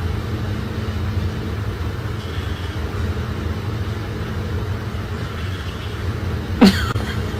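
Steady low rumble of background noise, with one short, sharp yelp sliding down in pitch near the end.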